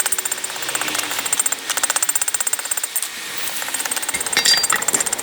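Rapid, evenly spaced hammer blows on hot steel, about ten a second, as a railroad spike's head is drawn out on the anvil. The run breaks off briefly about three seconds in, then the strikes resume less regularly.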